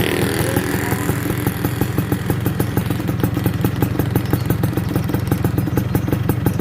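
Yamaha F1ZR two-stroke moped engine idling steadily through a stainless racing exhaust, with a quick, even pulsing beat.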